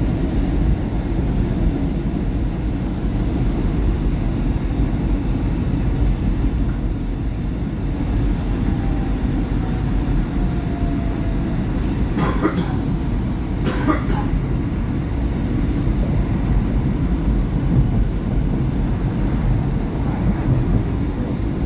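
SEPTA Market-Frankford Line subway car running between stations, a steady low rumble of wheels and motors heard from inside the car. About twelve seconds in come two sharp knocks, about a second and a half apart.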